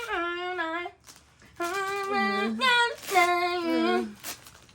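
A voice singing without accompaniment, in long held notes that slide between pitches. It comes in two phrases with a short break about a second in.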